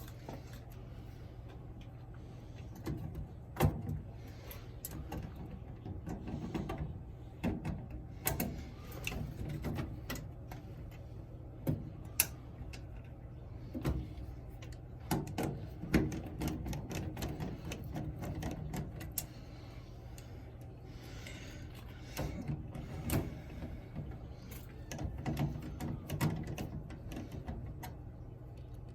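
Irregular metal clicks, knocks and rattles of a dryer's sheet-metal panel being handled and its Torx screws driven back in, over a steady low hum.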